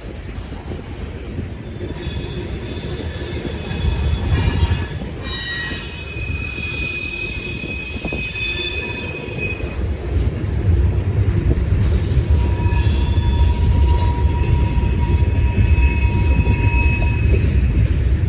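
Train rolling past with its steel wheels squealing against the rails in several high, steady tones, over a continuous low rumble of the cars. The squeal is strongest in the first half, while the rumble grows louder in the second half.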